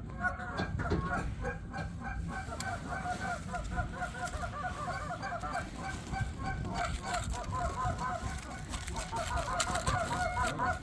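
Geese calling: a continuous chorus of short repeated honks and clucks, over a low wind rumble.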